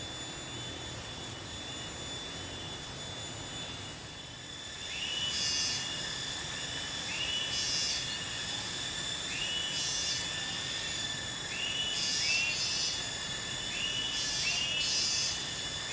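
Riverside insect chorus: a steady high-pitched drone, typical of cicadas and crickets. From about five seconds in, a short chirping call rises then levels off, paired with a hiss-like burst, and repeats every second or two.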